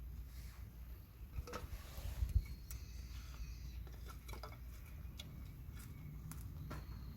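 Quiet outdoor ambience with a steady low rumble and scattered light clicks and taps, a few sharper knocks about two seconds in.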